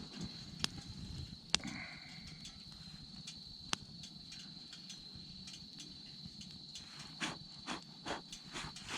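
Night insects, likely crickets, chirping as one continuous high-pitched tone, with a few sharp clicks in the first four seconds and some soft rustling near the end.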